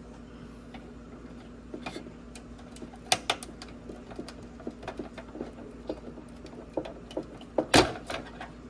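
Scattered small clicks and knocks of hands working at a BMW F01 headlight's plastic housing and wiring, tugging off a tightly fitted ground-cable connector. The loudest knock comes about three quarters of the way through, over a steady low hum.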